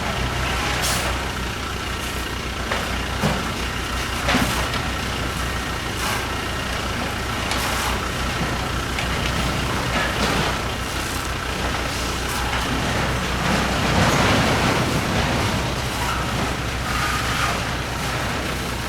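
Large diesel truck engine running steadily, with short bursts of hissing and clatter now and then.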